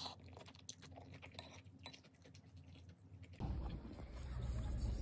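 Close-up chewing of spicy Buldak noodles, with scattered soft mouth clicks and smacks. A little over three seconds in, it cuts abruptly to outdoor background noise with a steady low rumble.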